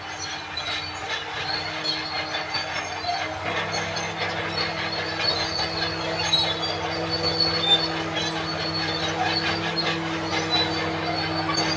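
Crawler bulldozer at work: its diesel engine runs steadily while the steel tracks squeal and clank. The engine note shifts and strengthens about three seconds in.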